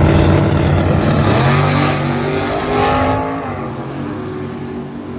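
Two drag cars, one a 1967 Camaro, launching at full throttle and accelerating down the strip, the engine note climbing and changing pitch through the gears. The sound fades steadily as they pull away.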